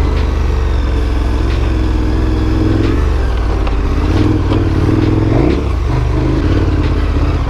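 Big adventure motorcycle's engine pulling along a dirt trail, its pitch rising and falling as the throttle is worked, with a few short clicks and knocks over it.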